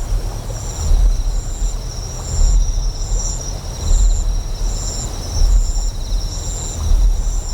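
Deep generator hum that swells and fades about every second and a half, under steady high insect trilling and a short chirp repeating a little faster than once a second.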